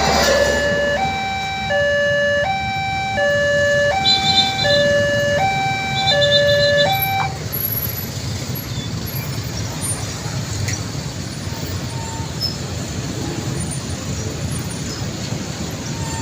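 Railway level-crossing warning alarm: an electronic two-tone signal switching back and forth between a high and a low note, about one pair a second. It cuts off abruptly about seven seconds in, leaving a steady low rumble of background noise.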